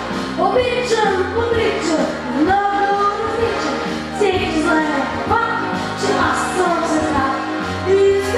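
A singer performing a pop song over a backing track with a steady beat.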